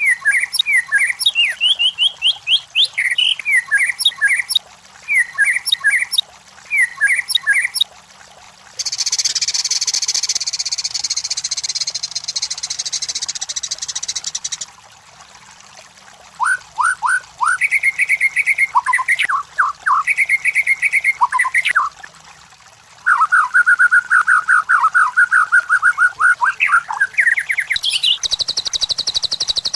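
White-rumped shama (murai batu) singing: varied phrases of quickly repeated whistled notes and trills, broken by a harsh, rasping call lasting several seconds about a third of the way through and a high buzzy call near the end.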